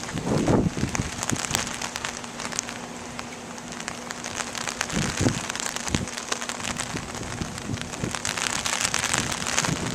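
Steady rain falling, with many small drops pattering on nearby surfaces and a faint steady hum under it. Brief low rumbles come about half a second in and again about five seconds in.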